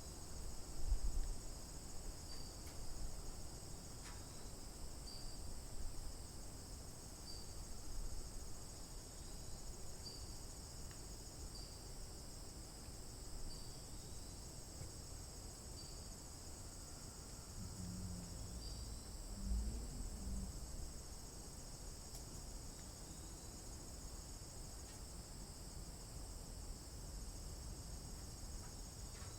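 Steady chorus of crickets or other insects, a dense high-pitched trill that never lets up, with occasional low thumps, loudest about a second in and again about two-thirds of the way through.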